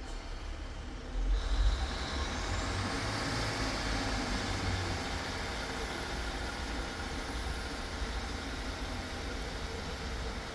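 Railway train running at a station: a heavy low rumble that comes in suddenly about a second in, with a high whine rising in pitch and then holding steady.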